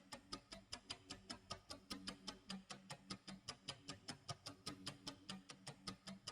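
Tick-tock clock sound effect: a faint, fast, even ticking that keeps steady time.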